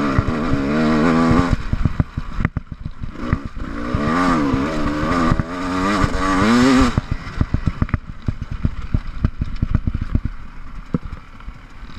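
GasGas EC 300 two-stroke enduro motorcycle engine, heard from on the bike, revving up and down in two long stretches of throttle on a dirt track. About seven seconds in it drops off the throttle and gets quieter, leaving a rapid, uneven ticking and clatter.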